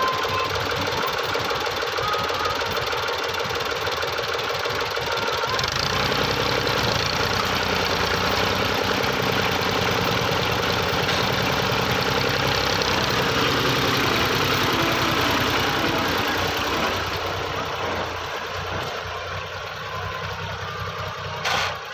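An old 1986-model tractor engine running steadily with a knocking beat. The sound fills out about five seconds in and fades away from about seventeen seconds in, with a short sharp noise just before the end.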